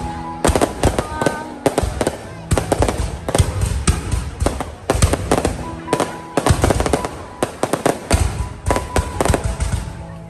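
Fireworks display going off: irregular volleys of sharp bangs from bursting fireworks, several a second with short lulls between them.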